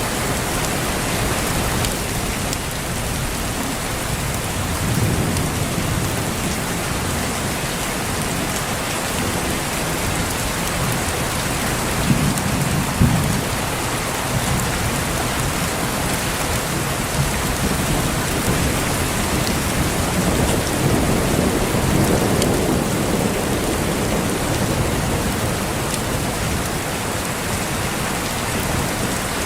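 Steady heavy rain with low rolling thunder. The thunder swells about five seconds in, again a little before halfway with two sharper claps, and in a longer roll past the middle.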